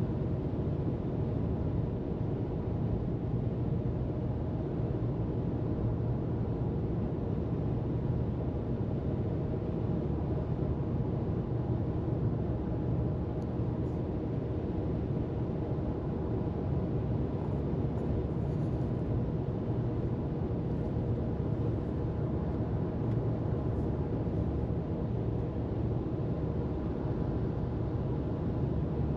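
Car travelling at freeway speed: a steady low rumble of road and tyre noise with engine hum, unchanging throughout.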